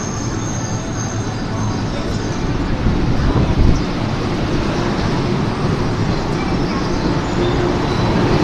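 JR 103-series electric commuter train pulling away from a standstill and rolling past close by, its rumble and wheel noise growing as it gathers speed. A steady hum comes in near the end.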